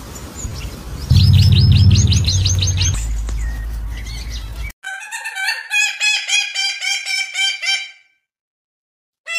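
Bird calls: a quick run of high chirps over a low rumble, then, after an abrupt cut, a regular series of pitched calls about three a second that break off near the end and start again at the very end.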